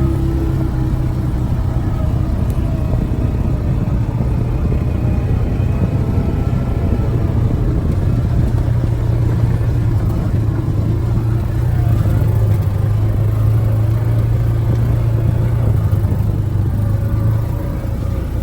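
Motor vehicle driving steadily: a continuous low engine and road rumble.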